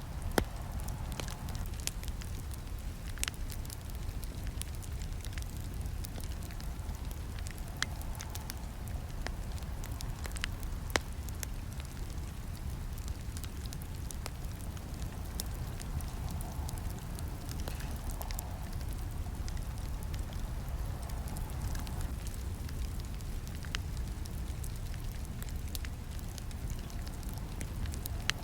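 Campfire burning: a steady low rumble of the flames with a constant scatter of small crackles and snaps, and a few louder pops standing out.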